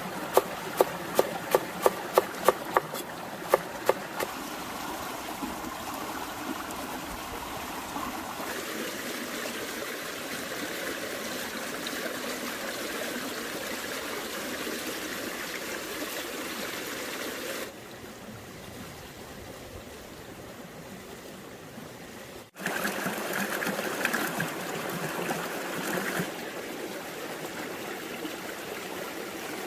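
Quick regular knife chops on a cutting board, about three a second, for the first few seconds, over a steady trickling stream. The stream carries on alone and changes in level several times.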